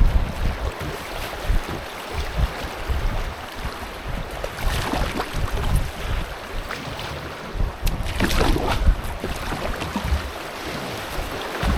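Moving river water swishing and splashing around a canoe under way, with wind buffeting the microphone as a low rumble. Louder splashy stretches come about five seconds in and again around eight to nine seconds.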